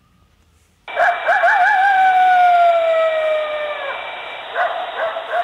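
Coyote howling. After about a second of quiet, a wavering start settles into one long howl falling slowly in pitch. A few short yips follow, and another howl begins near the end.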